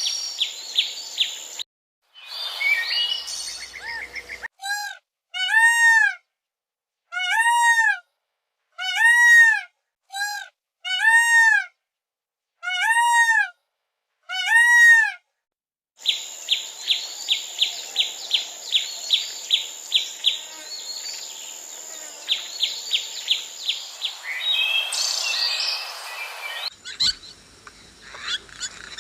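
Calls of several different birds in quick succession. In the middle comes a series of about nine loud calls, each rising then falling in pitch and lasting about half a second, with dead silence between them; after that comes a long fast run of short repeated chirps.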